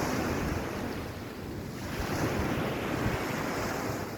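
Sea waves washing onto the beach with wind buffeting the microphone; the wash eases about a second and a half in and swells again as the next wave comes in.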